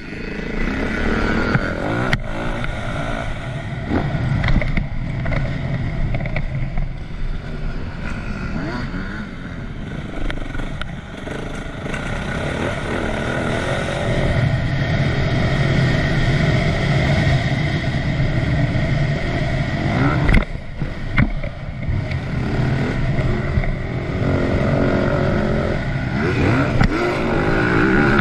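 2010 Yamaha YZ450F's single-cylinder four-stroke engine revving up and down under hard acceleration and throttle-off, the pitch rising and falling again and again. There is a brief drop in the engine sound about twenty seconds in.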